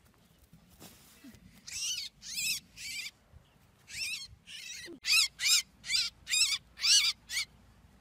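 A small trapped bird calling in distress as it is taken from the trap: about a dozen short calls, each rising then falling in pitch, coming faster in the second half.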